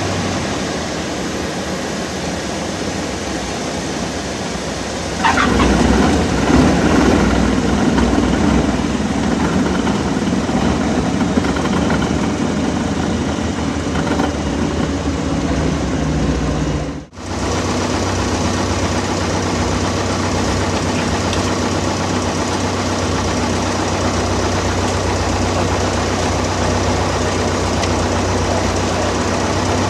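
Piston engine of a single-engine Cessna, heard from inside the cabin as a steady running drone. About five seconds in it grows louder and rougher; around seventeen seconds it drops out for an instant, then the steady drone resumes.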